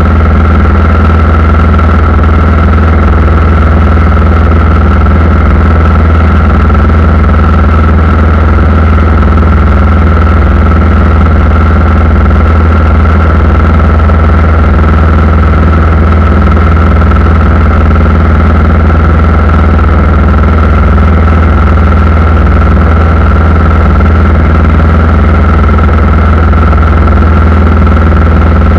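Aircraft engines running steadily: a loud, even low hum with a constant high whine over it.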